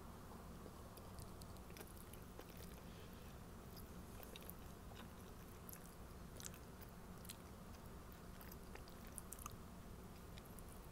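Faint, scattered wet clicks of someone chewing a bite of a soft chicken-salad sandwich on white bread, over a low steady hum.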